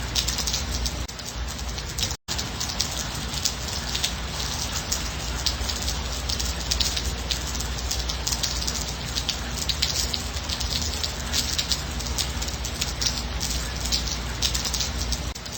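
Steady rain, with many individual drops pattering on a surface. The sound cuts out for an instant about two seconds in.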